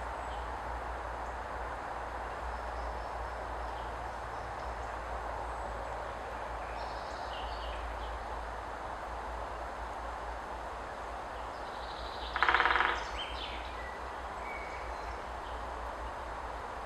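Great spotted woodpecker drumming once, a single rapid roll of strikes lasting under a second, about twelve seconds in. Steady low background noise and a few faint bird calls run underneath.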